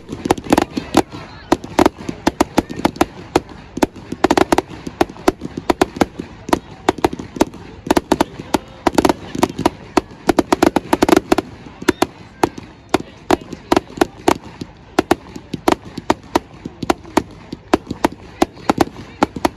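Fireworks going off: many sharp bangs and cracks in quick, irregular succession, several a second, with louder clusters every few seconds.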